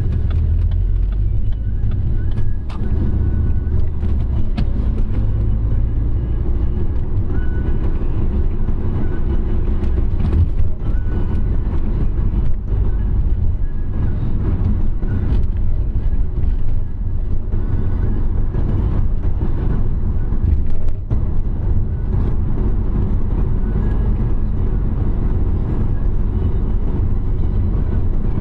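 A car being driven: a steady low rumble of engine and road noise, with a few brief knocks along the way.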